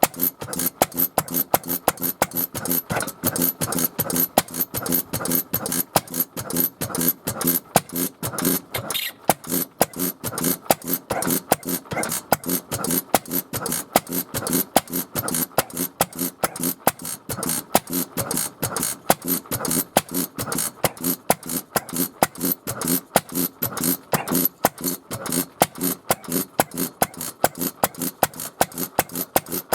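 Small engine running on a test run after its ignition condenser was replaced, firing as a steady series of sharp pops about four times a second.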